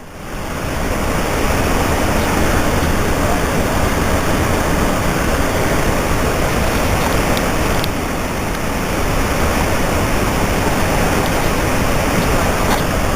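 Steady roar of Niagara Falls' rushing water, rising over the first second and then holding even.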